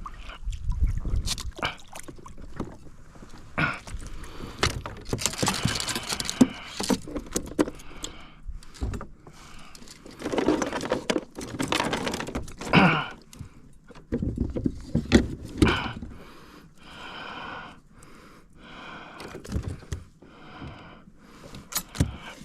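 Irregular knocks, clicks and rustling from a kayak and its fishing gear being handled, with a couple of longer bursts of noise.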